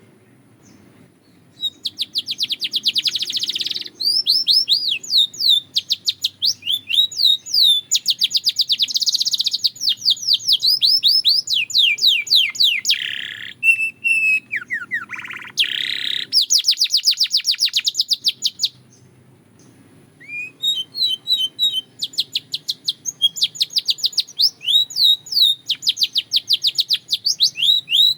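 Belgian canary singing: fast trills of repeated high, down-sweeping notes, broken near the middle by a few lower, slower notes. There are short pauses just after the start and about two-thirds of the way in.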